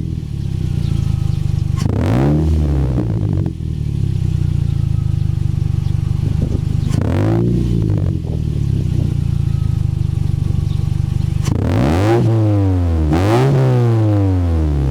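Toyota Porte's exhaust idling, blipped to a brief rev four times, each rising and falling back to idle within about a second: a little after two seconds in, around seven seconds, and twice close together near the end.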